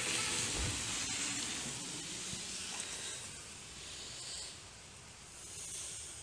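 Steady hiss of rain in a storm, with wind rumbling on the phone's microphone.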